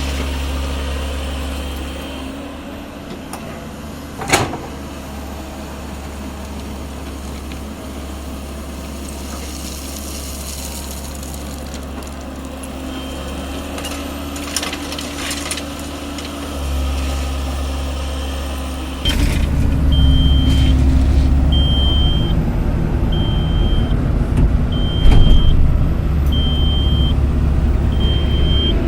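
Heavy diesel machinery running steadily at a stone-loading site, with a sharp knock about four seconds in. Near the two-thirds mark the engine noise jumps louder and a warning alarm starts beeping about every second and a half.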